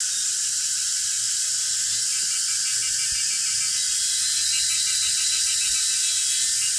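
Cicadas singing in chorus: a steady, loud, high-pitched buzz with a rapid pulsing song running through it.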